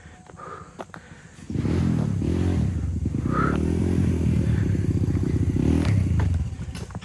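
Trail motorcycle engine revving hard, its pitch rising and falling, starting suddenly about a second and a half in and easing off near the end. A few sharp clicks come before it.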